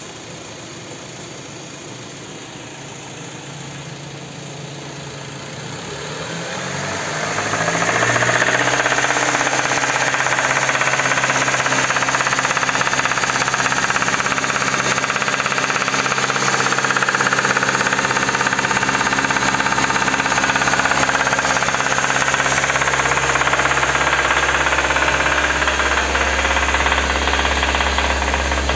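Kia K5 car engine running with a rapid, hard knocking: a connecting-rod knock from worn rod bearings. The revs climb over a few seconds and then hold steady at a higher speed.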